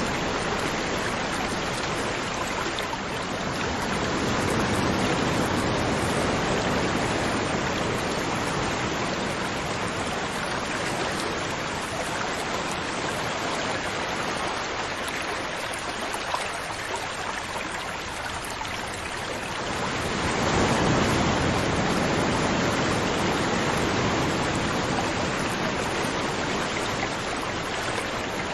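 River water flowing steadily over rocks, a continuous rushing that swells a little about a sixth of the way in and again about two-thirds through.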